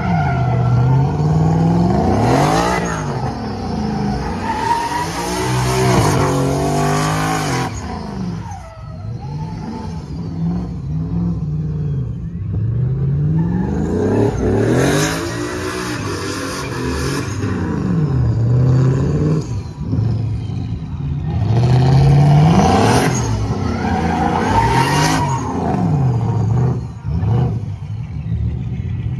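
Car engine revving hard, pitch sweeping up and down again and again as it does donuts, with bursts of hiss from the spinning tyres.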